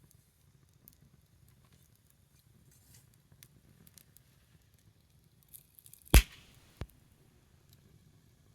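Small wood fire crackling with sparse faint ticks. One loud sharp pop comes about six seconds in, with a smaller pop just after.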